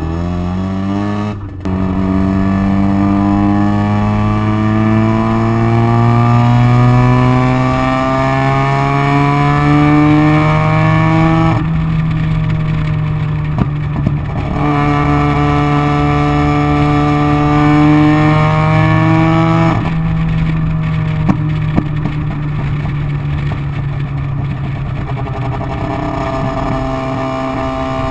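1985 Mazda RX-7's fully ported 13B rotary engine on a Demon carburettor, through a loud exhaust, pulling hard with revs climbing steadily through the gears, with breaks at the shifts about 1.5 s and 12 s in. About 20 s in it comes off the throttle and runs rougher, with a few sharp pops typical of this car backfiring off throttle.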